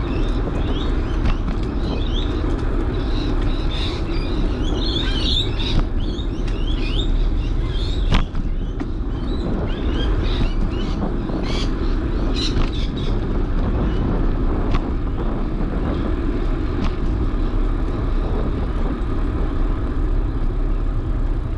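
Steady wind and riding rumble on the microphone of a moving bicycle, with birds chirping in short bursts between about three and thirteen seconds in.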